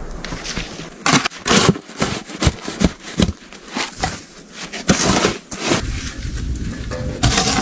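Oak logs being split small and handled, giving a run of sharp, irregular wooden knocks, several a second, mixed with short crunching noises.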